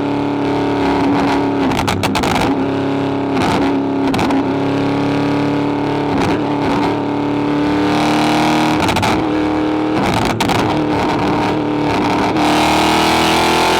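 Car engine and exhaust running at a steady, held pitch, with brief breaks every couple of seconds. The pitch climbs slowly near the end as the engine revs up.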